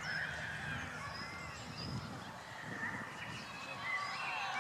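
Birds calling in the background: many short chirps with rising-and-falling notes, and a falling call near the end, over a low rumble.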